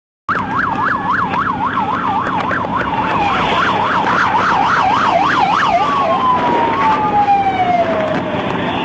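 Police cruiser siren in a fast yelp, sweeping up and down about three times a second, then changing about six seconds in to a slow wail that falls and starts to rise again near the end, over engine and road noise. The sound cuts in after a moment of silence.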